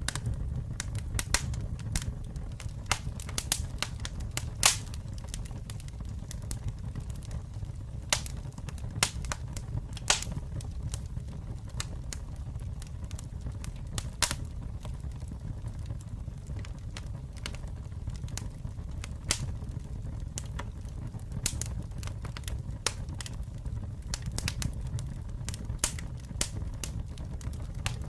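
Campfire burning with a steady low rumble and frequent irregular crackles and pops of burning wood, a few sharper pops standing out.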